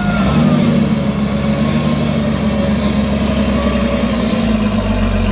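Engine of a modified off-road 4x4 running under load as the vehicle crawls slowly through a dirt trench, a steady loud drone with a faint high whine that rises near the end.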